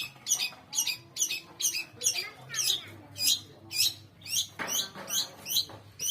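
Long-tailed shrike (cendet) calling vigorously, a fast series of sharp, high, falling notes at about three a second.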